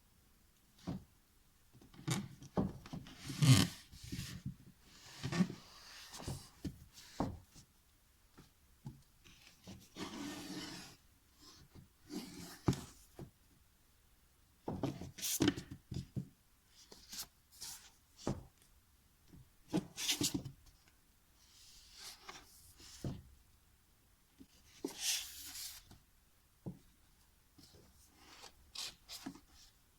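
Household objects being handled and moved in a small room: scattered soft knocks, clicks and brief rubbing and sliding sounds, with several short hissing swishes.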